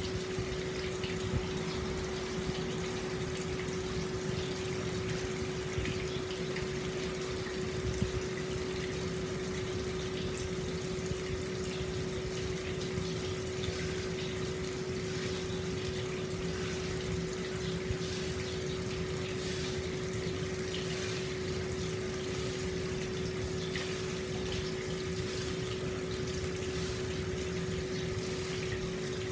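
Hot spring water pouring steadily into an open-air bath, a continuous gushing flow, with a steady hum underneath and a few faint splashes in the second half.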